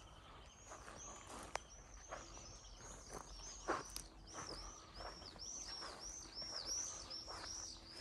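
A small songbird singing a fast series of repeated high, arched chirps, about three a second, with a few soft footsteps on grass.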